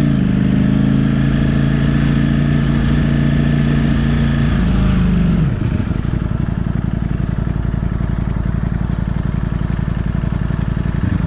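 Ducati motorcycle engine under way, held at steady revs, then the revs drop about five seconds in as the rider rolls off. It runs on at lower revs with a steady rumble of wind and road noise.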